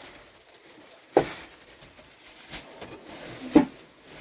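Two sharp knocks about two and a half seconds apart, with a fainter one between them and low rustling of things being handled.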